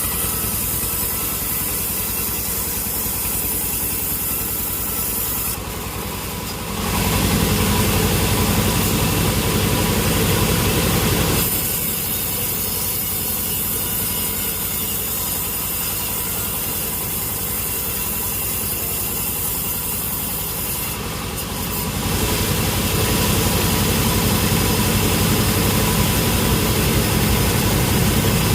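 Sawmill machinery running steadily with a constant hum. It grows louder and rougher in two spells, from about 7 to 11 seconds in and again from about 22 seconds on.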